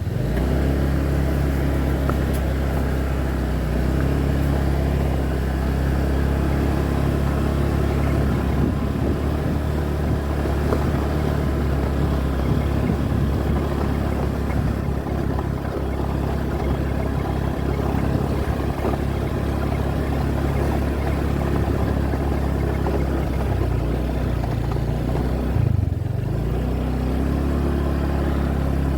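Motorbike engine running steadily while riding, with wind rushing over the microphone. Near the end the engine note dips and then climbs again.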